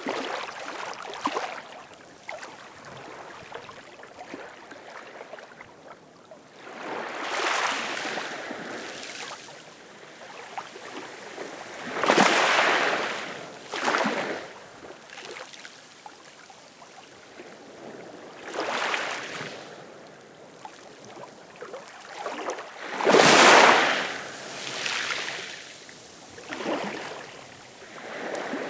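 Ocean waves breaking, each a surge of rushing water noise every few seconds, with the loudest about three quarters of the way through.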